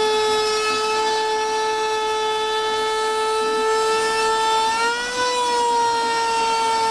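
CNC router spindle whining at a steady pitch while milling a puzzle piece. About five seconds in, the pitch rises briefly and then settles back.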